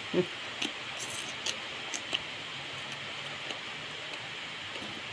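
A person chewing a mouthful of rice noodles and papaya salad, with small wet mouth clicks in the first two seconds and fewer after, over a steady hiss.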